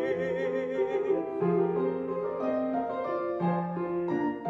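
Piano accompaniment playing the short interlude between verses of an art song; a sung note held with vibrato fades out about a second in.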